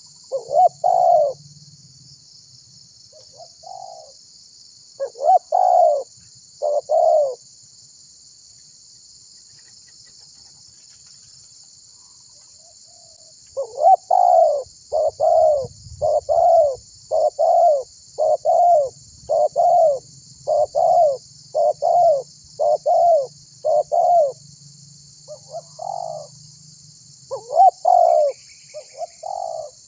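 Spotted dove (tekukur) cooing: a few coos near the start, a pause of several seconds, then a long even run of coos at about three every two seconds. A steady faint high hiss lies under it.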